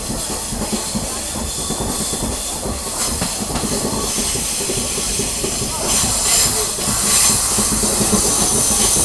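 KiHa 47 diesel railcar running along the track, its wheel and rail noise heard through the open door. A hiss grows louder about six seconds in.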